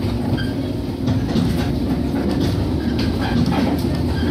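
Sound inside a Shinano Railway 115-series electric train: a steady low hum with a few held tones, broken by scattered light clicks and knocks.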